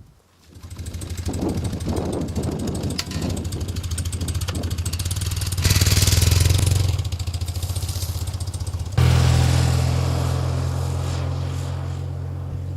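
Motorcycle engine running, coming in about half a second in. Its level jumps about six seconds in and its pitch steps up sharply about nine seconds in, then the sound slowly fades.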